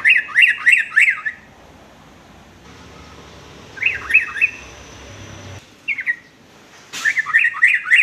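Yellow-vented bulbul (trucuk) singing: short phrases of quick, sharp chirping notes, about four to five notes a second, with pauses between them. One phrase at the start, a shorter one about four seconds in, a brief note near six seconds, and another phrase from about seven seconds on.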